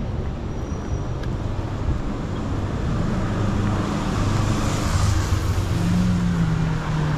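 City street traffic on a rain-wet road: vehicle engines running with tyre hiss, a nearby engine hum growing louder from about four seconds in.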